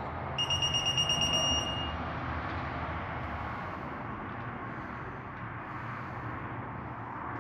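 Electronic torque wrench beeping rapidly for about a second, a high tone pulsing about eight times a second, signalling that the exhaust manifold bolt has reached its set torque of 18 foot-pounds. Afterwards only a steady low background hum remains.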